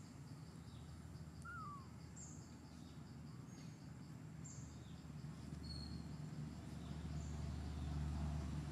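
Forest ambience: scattered short bird chirps and one slurred call over a faint, fast, regular insect ticking. A low rumble builds over the last few seconds.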